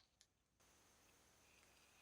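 Near silence: room tone with a faint hiss and one faint click.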